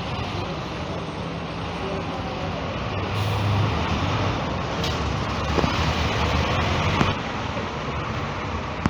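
Volvo 9800 coach's diesel engine running as the bus pulls away, its low drone growing stronger about three seconds in, over a steady hiss of rain. A couple of sharp clicks sound around the middle.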